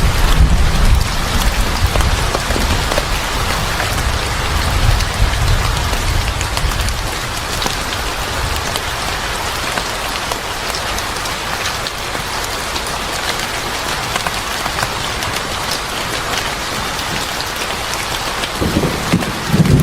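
Steady heavy rain falling, with scattered faint crackles of a wood fire. A low rumble underlies the first several seconds and fades, and a short low rumble swells near the end.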